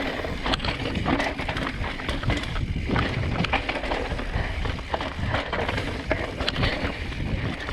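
Mountain bike riding over a rough dirt trail: steady tyre noise with frequent clicks and rattles from the bike.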